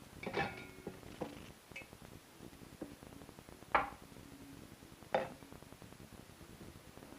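Kitchen dishes and utensils being handled: a handful of separate knocks and clinks, the first with a brief ringing tone.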